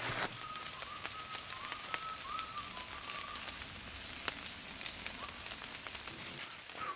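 Raindrops pattering on dry fallen leaves in scattered soft ticks. A boot crunches into the leaf litter right at the start, and a faint wavering high call sounds during the first few seconds.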